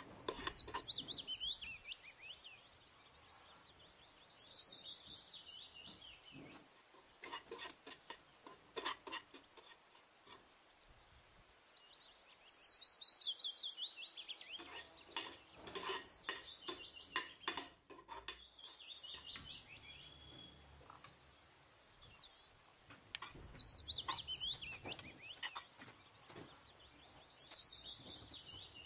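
A bird singing a repeated descending trill, a quick run of high notes falling in pitch, heard five times. Between the trills, clusters of light clinks from a spatula stirring in a frying pan.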